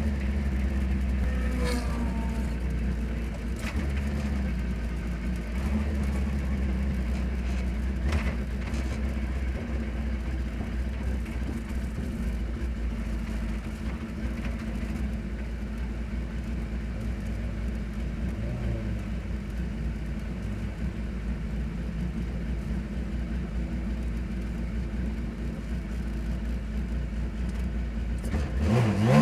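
Racing car engine running steadily at low revs, a low, even rumble, with the revs rising sharply right at the end.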